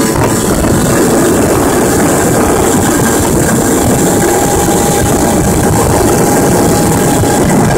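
Small two-stroke Piaggio moped engine, fitted with a 38.2 mm cylinder, 12/12 carburettor and SITO exhaust, running steadily at an even speed.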